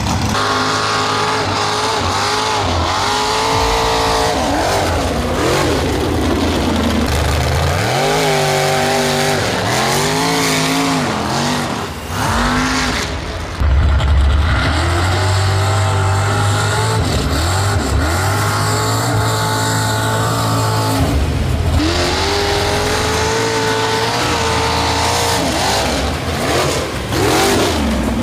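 Mud bog truck's engine at high revs, repeatedly revving up and falling back as it drives through the mud, with a deep low rumble in between.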